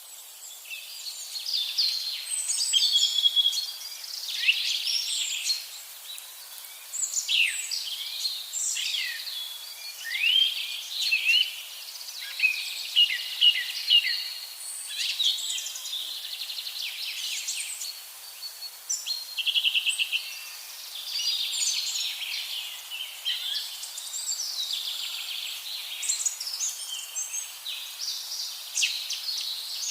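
Several songbirds singing and calling at once: overlapping chirps, whistled phrases and quick trills that keep going without a break.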